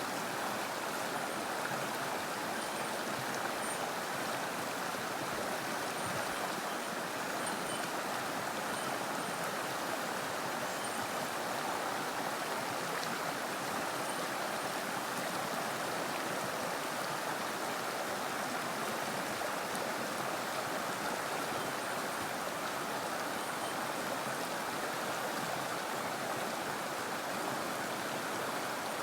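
Mountain stream water rushing steadily over rocks, an even unbroken flow.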